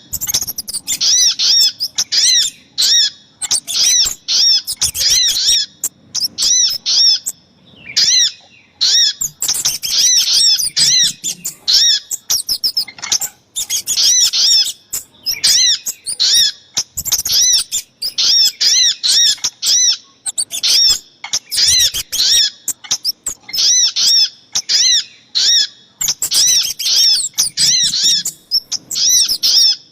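Bird-lure recording of sogok ontong (spiderhunter) calls combined with kemade calls. Loud, sharp chip notes repeat rapidly, several a second, with a brief pause about eight seconds in.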